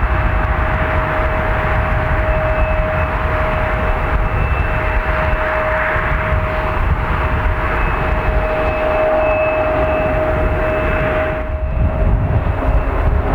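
Mitsubishi CRJ-900's two rear-mounted turbofan engines at takeoff power: a steady jet roar with a deep rumble and a constant whine. Near the end, the whine drops slightly in pitch and the higher hiss falls away as the jet goes past.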